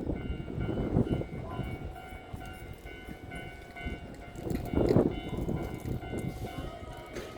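Electric train running through the station, its wheels rumbling on the rails under a steady whine, with a louder rumble about five seconds in.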